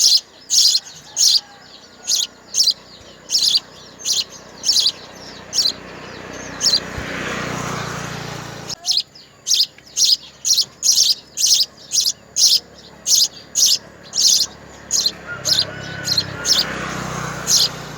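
Baby birds chirping to be fed: short, high chirps repeated about twice a second. A rustling noise swells up just before halfway and again near the end.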